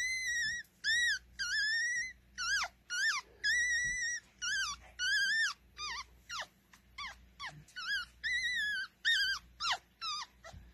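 Four-day-old pug puppy squealing and crying over and over: a string of short, high-pitched squeaks, about two a second, many of them ending in a sharp downward slide.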